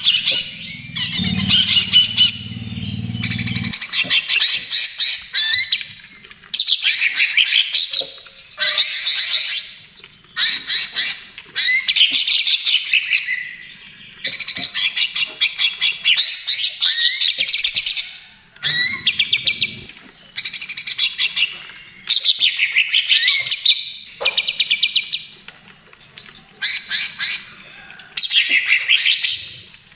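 Greater green leafbird (cucak ijo) singing a fast, chattering trotol song: rapid trilled phrases of a second or two, repeated again and again with short pauses between them.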